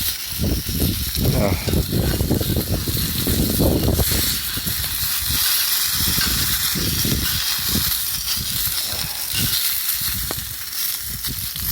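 Meat sizzling over a wood campfire, a steady hiss, with irregular low knocks and rustles close by.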